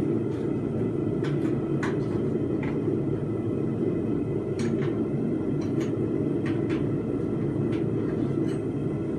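A forge running with a steady low rumble, with a few faint light clicks now and then.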